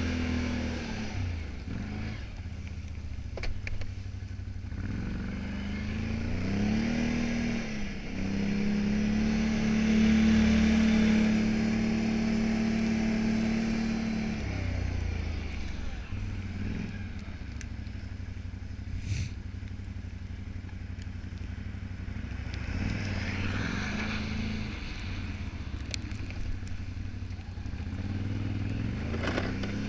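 Can-Am 570 XT ATV's V-twin engine running with the revs going up and down several times. The revs are held high and steady for about six seconds in the middle, then drop back to lower running before rising again near the end.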